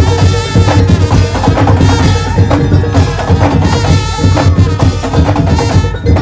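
Madurese tong-tong ensemble playing: wooden slit drums and drums strike a fast, busy rhythm, with sustained pitched melody tones over them.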